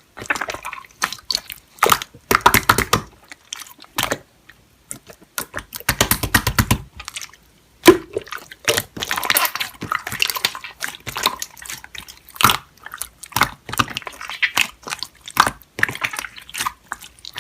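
Slime being squeezed and poked by hand, making wet clicks and pops in quick irregular runs.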